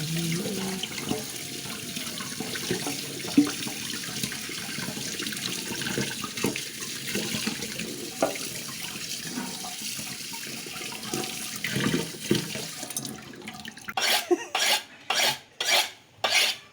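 Tap water running steadily into a sink, with a few clinks and knocks. About fourteen seconds in it gives way to a run of rhythmic rubbing or scraping strokes, about two to three a second.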